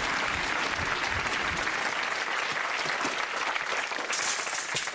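Studio audience applauding steadily, welcoming a performer on stage.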